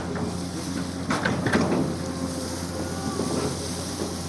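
Excavator's diesel engine running steadily, with a cluster of short knocks and scrapes about a second in as it works the soil of the embankment.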